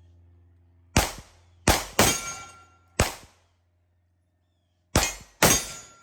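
A string of shots from a Desert Eagle .50AE pistol firing 300-grain rounds, six loud cracks at uneven spacing, each with a short ringing tail. Two come close together about two seconds in, and there is a pause of nearly two seconds before the last pair. The pistol keeps cycling through the string without a stoppage.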